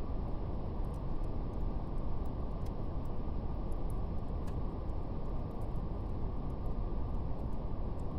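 Steady brown noise, a deep even rush heaviest in the low end, with faint scattered crackles of a fire.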